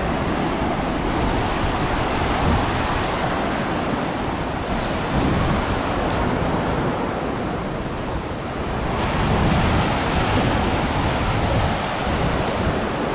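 Sea surf washing onto the beach in a steady noisy rush, with wind rumbling on the microphone.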